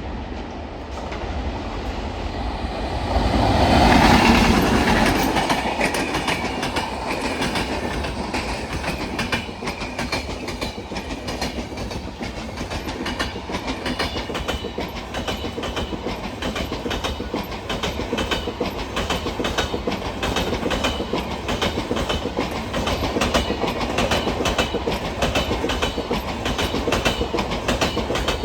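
Passenger train passing at speed, hauled by a WAP-7 electric locomotive: a loud swell about four seconds in as the locomotive goes by, then its LHB coaches follow with a steady, rapid clatter of wheels over rail joints.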